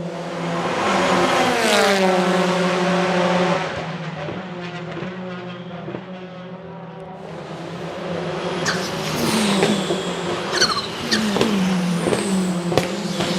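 Hyundai Elantra N's 2.0-litre turbocharged four-cylinder engine and exhaust: revs climb then fall away about a second in, settle to a lower drone, then from about eight seconds in a run of quick rev blips that fall in pitch, broken by several sharp exhaust cracks, as on downshifts.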